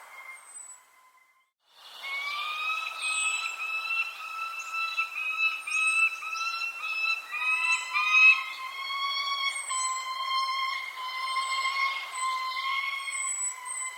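Birdsong: one bird gives a long run of short, repeated call notes on a steady pitch, while another gives high, thin, falling chirps every second or so. The sound cuts out for about half a second near the start, then carries on.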